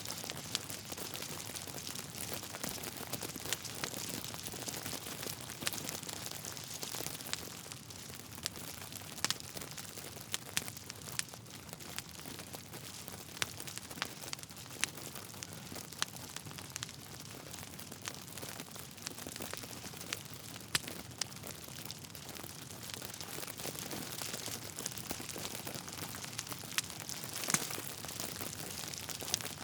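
Wood fire crackling: a steady soft hiss with irregular sharp crackles and occasional louder pops from burning logs.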